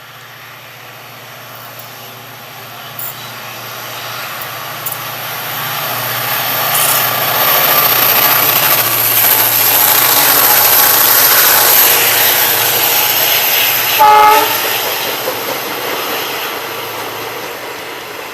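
Diesel-hauled express train approaching and passing at speed, its running noise swelling and then easing off. A short horn blast near the end is the loudest moment.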